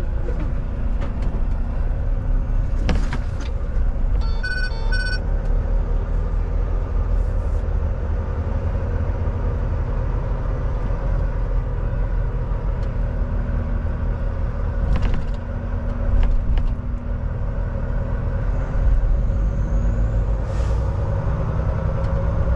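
Tractor-trailer cab on the road: the diesel engine and road noise make a steady low rumble throughout. Two short electronic beeps sound about four to five seconds in, and there are a few faint clicks.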